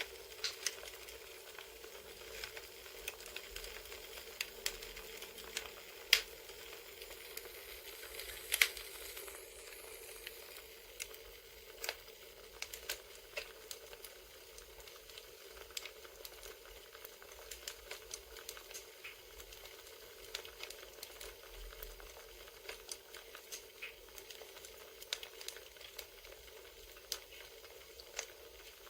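Crackling campfire: a steady soft hiss with scattered sharp pops and snaps.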